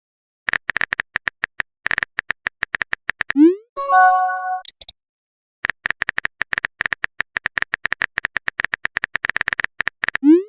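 Rapid clicking of a typing sound effect, like tapping on a phone keyboard, in two long runs. After each run comes a short rising swoosh of a message being sent. After the first swoosh comes a brief electronic chime of a few steady tones.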